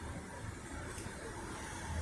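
Hurricane winds blowing steadily: a constant rushing noise over a deep low rumble.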